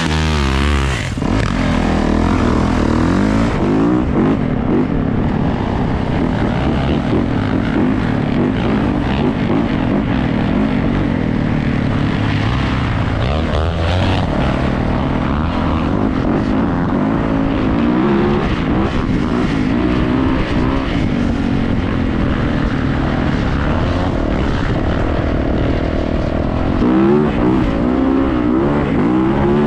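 Yamaha YZ450F dirt bike's four-stroke single-cylinder engine running hard, its pitch rising and falling as the throttle is worked, under steady wind rush.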